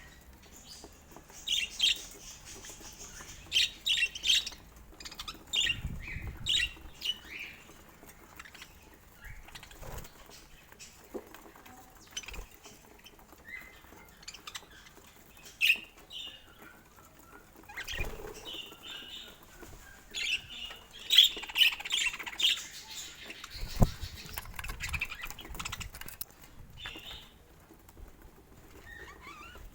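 Pet budgerigars chirping in short bursts, busiest in the first few seconds and again about twenty seconds in, with scattered clicks and knocks between.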